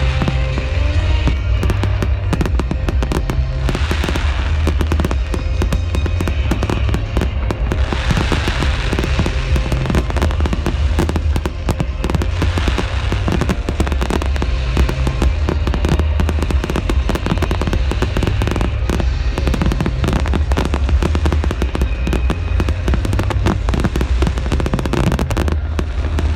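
Fireworks display going off continuously: dense, rapid crackling and popping over a deep, constant rumble of bursts.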